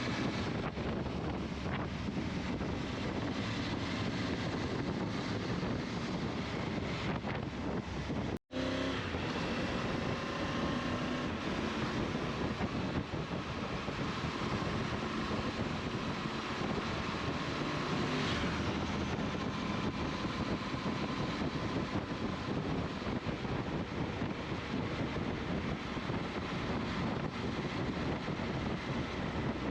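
A vehicle engine running steadily with wind noise on the microphone; the sound cuts out for an instant about eight seconds in.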